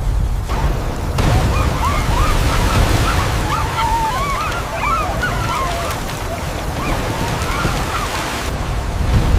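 A loud, low rushing roar of water. Many short, high cries overlap above it from about a second in until near the end.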